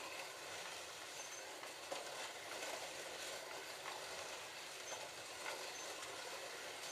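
Several slot cars running laps on a Scalextric plastic track: a steady whir and hiss from their small electric motors and tyres, with faint clicks now and then.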